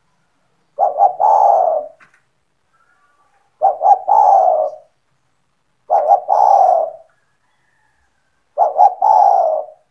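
Spotted dove cooing: four phrases, one about every two and a half seconds. Each phrase is two quick short notes followed by a longer, falling coo.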